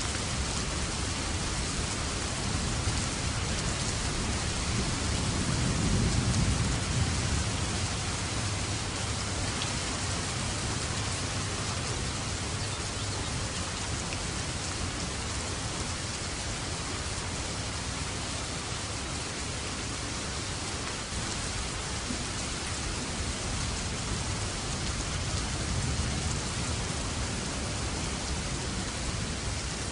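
Steady heavy rain falling, with low rolls of distant thunder, the strongest rumbling about five to eight seconds in and a softer one near the end.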